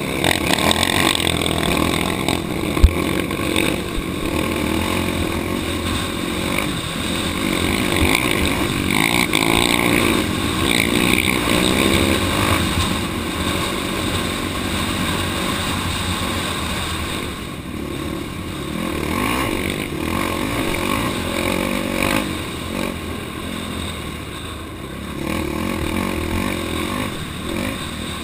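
Off-road vehicle engine running on a trail ride, its pitch rising and falling with the throttle, with a sharp knock about three seconds in.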